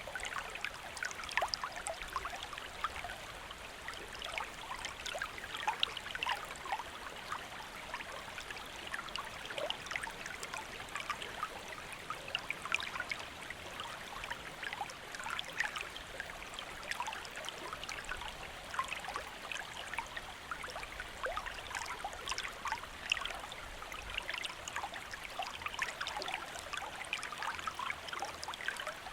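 A shallow stream flowing over stones, a steady babble full of small splashes and trickles.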